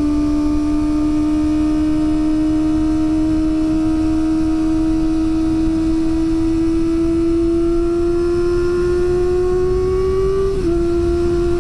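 Kawasaki ZX25R's 250 cc inline-four running at high revs, its pitch climbing slowly and steadily as it pulls. About ten and a half seconds in the note breaks briefly and carries on a little lower. A rough rumble of wind lies under it.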